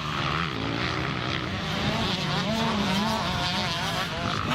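Several motocross bike engines running on the track, their pitch rising and falling as the riders work the throttles.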